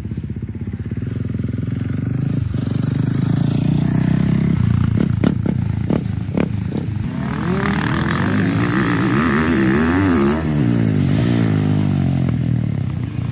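Single-cylinder 450 four-stroke motocross bike engine running, with a few sharp knocks about halfway through, then revving up and down repeatedly as it is ridden.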